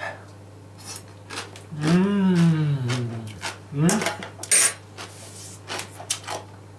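Crisp sauerkraut crunching as it is chewed, in a run of short sharp crackles, with a fork clicking against the teeth at the start. About two seconds in comes a long, loud hum of enjoyment that rises then falls in pitch, and a short one follows.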